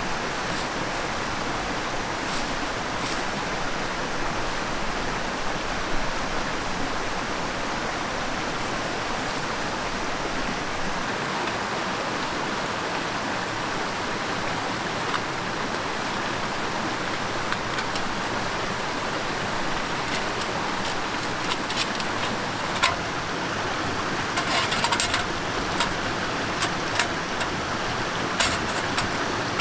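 Mountain stream rushing steadily. Sharp clicks and knocks are heard over it in the last several seconds.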